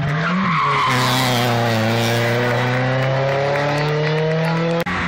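Rally car engine approaching on a tarmac stage, its note held fairly steady, dipping slightly and then climbing again before it cuts off suddenly near the end.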